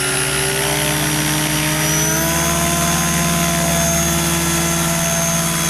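Radio-controlled model helicopter flying, its motor and rotor whine rising in pitch over the first couple of seconds, then holding steady.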